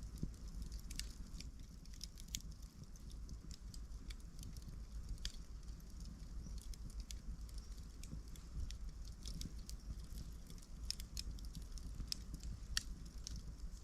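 Wood campfire burning, with frequent sharp, irregular crackles and pops over a low, steady rumble of flame. One pop near the end is louder than the rest.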